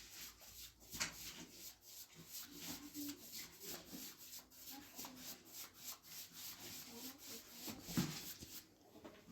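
Rapid, regular rubbing or scrubbing strokes against a surface, with a sharper knock about a second in and a louder thump near the end.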